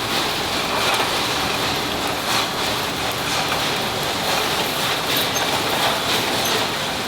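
Steady industrial machinery noise on a precast concrete production floor, with faint, irregular knocks and clatter.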